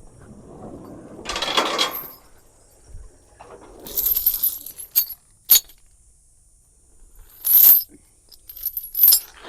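Steel tow chain being handled, rattling in several short bursts with a couple of sharp metal clinks between them.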